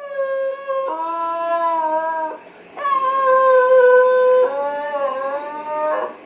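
Siberian husky puppy howling: two long drawn-out howls with a short break between them, each stepping to a different pitch partway through.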